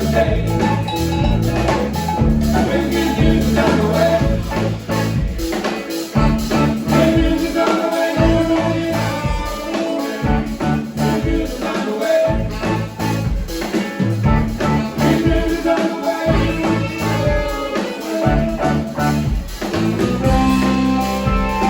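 Live rock band playing a song, with a stepping bass line, drum kit and guitar.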